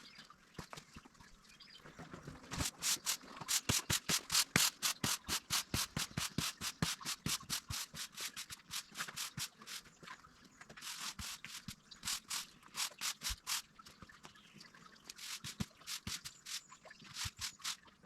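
Garden shears snipping through lavender stems in quick runs of about four to five cuts a second, in three stretches with short pauses between.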